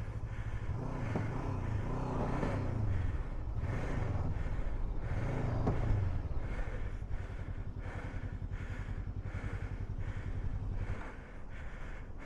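Adventure motorcycle engine running low and steady while stuck in deep sand. Its revs rise and fall a few seconds in, and the engine sound stops about eleven seconds in.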